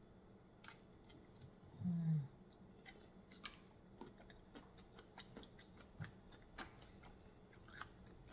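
A person chewing a sauce-coated shrimp, with many small wet mouth clicks scattered throughout and a short closed-mouth "mm" hum about two seconds in.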